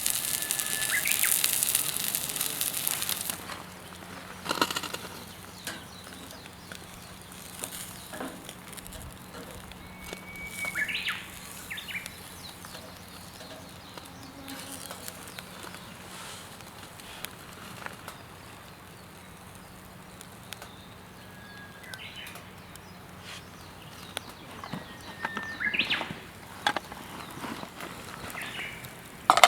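Birds calling outdoors: a few short chirps spaced several seconds apart over a quiet background. A burst of noise fills the first three seconds, and there are a few sharp knocks.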